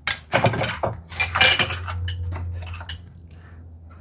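Metal hand tools clattering and knocking on a wooden workbench: a quick flurry of clinks and knocks in the first two seconds, then a few lighter ticks.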